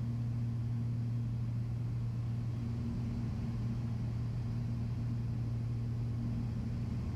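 Steady drone of a Beechcraft Baron B55's twin piston engines and propellers heard inside the cabin on final approach with the gear down, a constant low hum with a second, higher tone above it.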